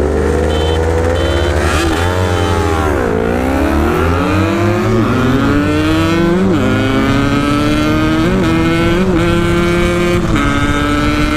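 Yamaha RX-King's two-stroke single with a ported cylinder accelerating hard through the gears: the revs climb, drop sharply at a shift about three seconds in, climb again with several short flares in revs at the upshifts, then hold a steady high drone near top speed. The rider says the shifts into third, fourth and fifth hang badly.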